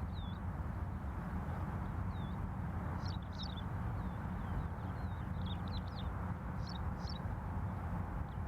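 Graceful prinia chirping: short high notes, singly and in quick little clusters, over a steady low background rumble.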